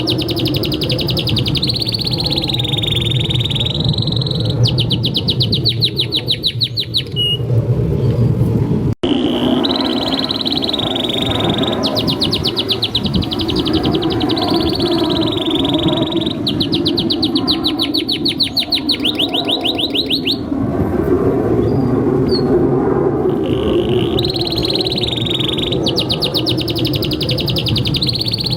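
Canary singing a long, continuous song: sustained warbling phrases alternating with fast, even trills, over a steady low background noise. The sound breaks off for an instant about nine seconds in.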